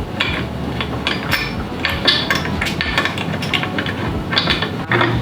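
Steel transmission gears, shift forks and shift drum clicking and clinking irregularly as they are wiggled and jimmied into place in a Honda CRF450R's crankcase.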